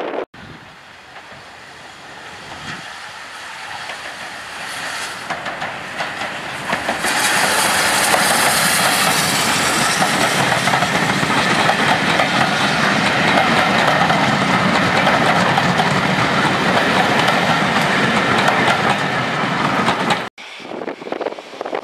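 Steam-hauled passenger train passing close by. The sound builds as it approaches, then holds as a loud, steady clatter of the coaches' wheels over the rail joints, and stops abruptly near the end.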